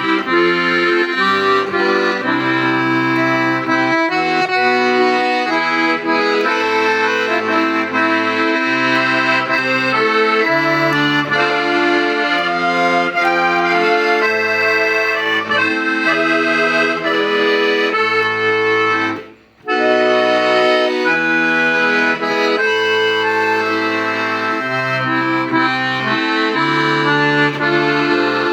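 Hohner Verdi II piano accordion playing a melody over a steady bass accompaniment, with one brief pause about two-thirds of the way through.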